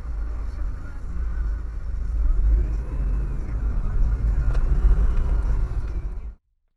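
Car on the move: a steady low engine and road rumble that cuts off abruptly about six seconds in.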